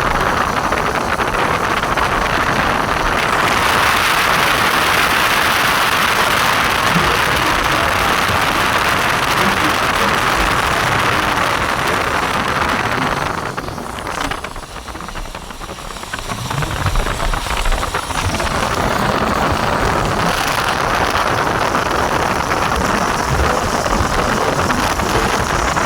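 Steady hiss of heavy rain, dropping quieter for about two seconds a little past halfway.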